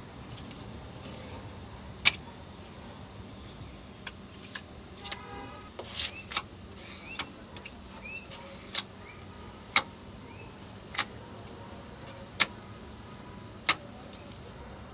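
Sharp clicks from a hand tool working hardened polyester body filler, coming irregularly and then about once a second, over a steady low hum.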